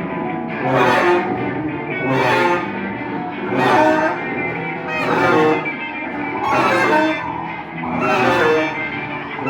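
Improvising ensemble playing live: sustained pitched tones with swells that recur about every second and a half.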